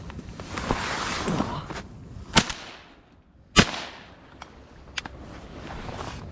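Two shotgun shots about a second apart, each with a short echoing tail, fired at ducks over decoys.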